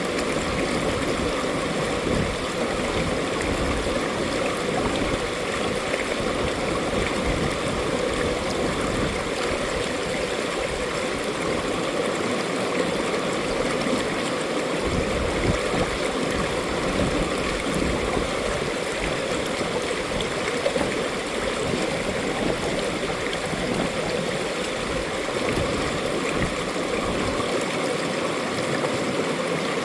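Mountain valley stream flowing and splashing over rocks: a steady, even rush of water.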